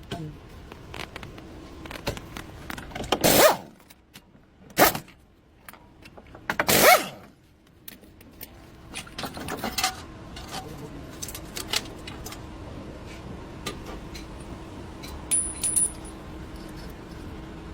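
Metal clinks and clatter, like tools and parts being handled, with a few louder scrapes or knocks in the first half and a faint steady hum underneath later on.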